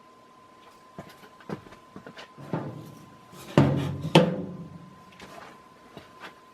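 A series of knocks and clanks, with two loud clanks about half a second apart in the middle, each ringing on with a pitched tone before dying away.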